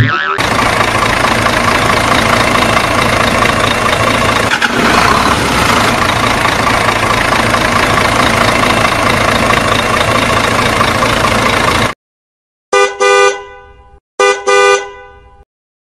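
A steady engine sound runs and cuts off suddenly about twelve seconds in. Then a horn toots twice, each blast about a second long and fading away.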